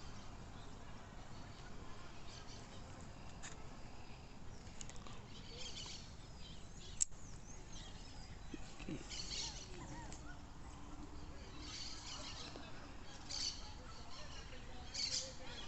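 Birds chirping in short bursts over a faint outdoor background, with one sharp click about seven seconds in.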